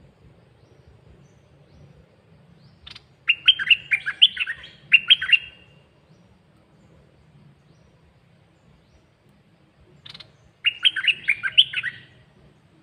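A caged red-whiskered bulbul singing two short, loud phrases of quick, warbling notes, one about three seconds in and one near the end, in the 'dok taeng' song pattern that Thai bird keepers prize.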